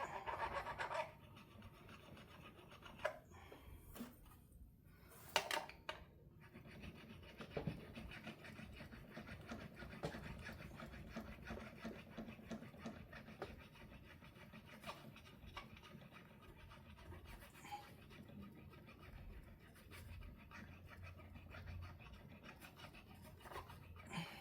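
Hand-filing and rubbing on a guitar's fret ends, smoothing and rounding them in a fret touch-up, with a few sharp clicks in the first few seconds.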